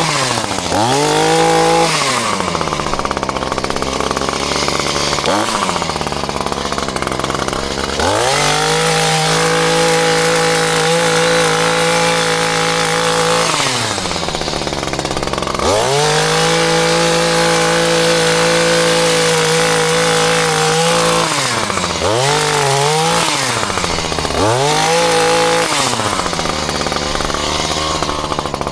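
Two-stroke chainsaw revving to full throttle and held there for several seconds at a time, dropping back toward idle in between, with a few quick revs near the end.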